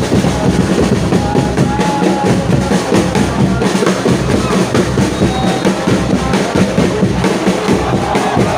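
A supporters' drum section beating a steady, dense rhythm, with a large stadium crowd chanting along.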